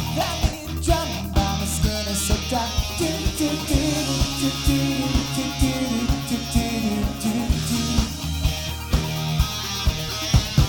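Live rock band playing an instrumental passage: a lead electric guitar line with bent notes over bass and a steady drum beat.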